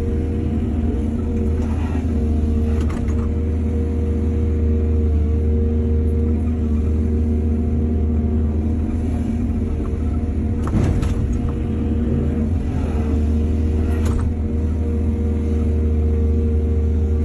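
Excavator diesel engine running steadily under load, with four brief sharp knocks spread across the span.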